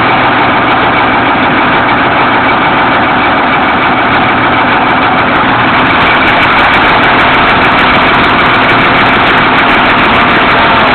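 Fire engine's motor running steadily at idle, loud and unchanging.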